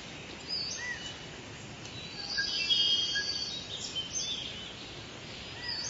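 Small birds chirping and whistling against a steady hiss, with scattered short calls that are busiest around the middle.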